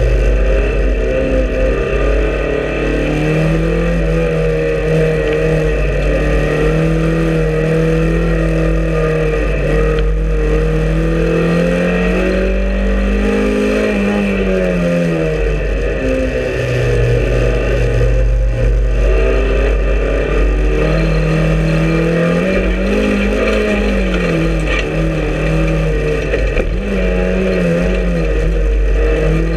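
Race car engine heard from inside its stripped cabin, loud, revving up and dropping back repeatedly as it is driven hard through gear changes and corners, over a steady low road rumble.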